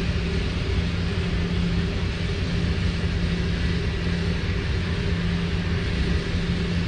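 A steady, low mechanical drone of running machinery, holding one pitch throughout.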